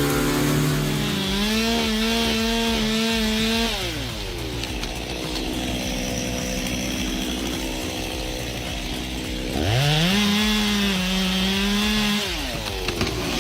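Chainsaw revving to full speed and cutting wood twice, each time holding a high steady whine for about two and a half seconds before dropping back to a lower running note.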